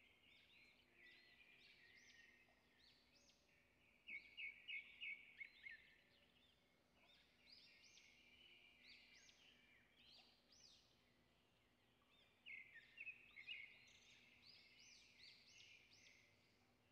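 Faint birds chirping: quick, high notes sweeping up and down over near silence, a little louder in two short clusters about four seconds in and again near thirteen seconds.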